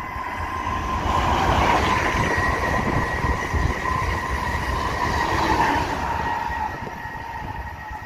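Renfe "Ave Pato" high-speed train passing through a station at speed. The rush of wheels and air swells about a second in and eases off near the end, over a steady high whine.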